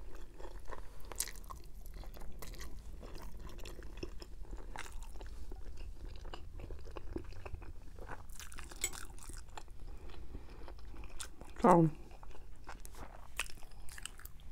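Close-miked chewing of a mouthful of fettuccine Alfredo, with many small wet mouth clicks and smacks. About twelve seconds in there is a short vocal sound that falls in pitch.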